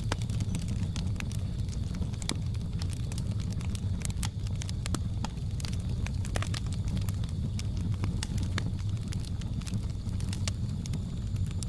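Wood fire crackling: frequent sharp pops and snaps over a steady low rumble of the flames, with a faint steady high whine in the background.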